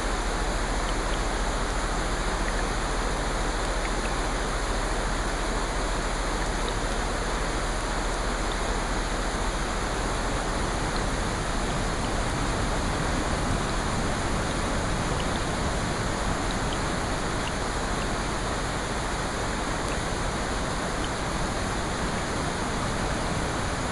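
Rain falling steadily, an even hiss with a few faint ticks of drops and no rise or fall in level.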